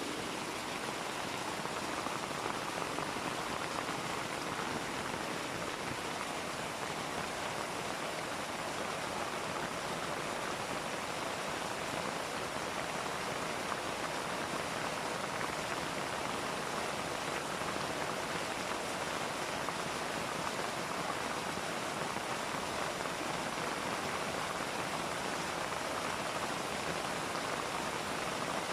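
A steady, even rushing hiss like running water or rain, unchanging in level throughout.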